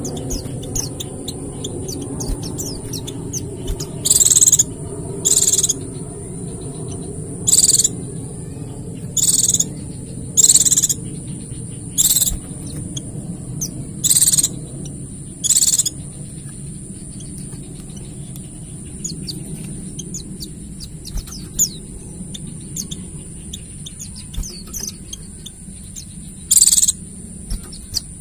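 White-eyes (pleci) twittering in a steady high trill, with loud, sharp high call notes. The call notes come every second or two through the first half and once more near the end, over a low steady background hum.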